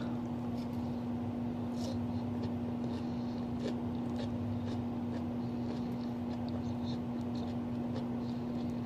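Faint eating sounds, with a few small clicks of a fork in a salad and chewing, over a steady low electrical hum.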